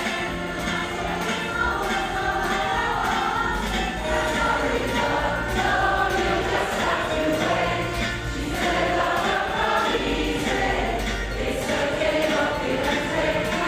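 Women's choir singing a pop song with a bass line and a steady beat underneath.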